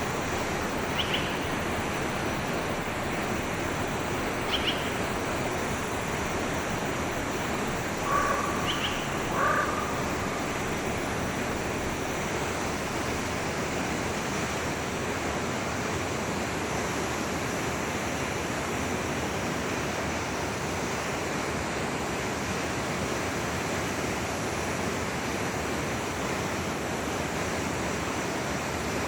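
Steady rush of a flowing forest stream, with a few short bird calls in the first ten seconds.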